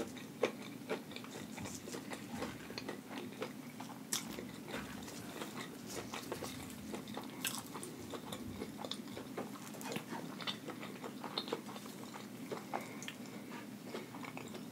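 Close-miked chewing of crunchy Flamin' Hot Cheeto-crusted fried chicken and shrimp: many small irregular crunches and clicks.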